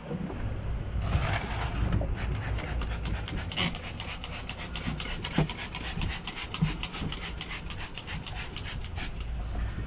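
Rapid back-and-forth scrubbing on a table top while cleaning it with bleach, an even run of about five strokes a second.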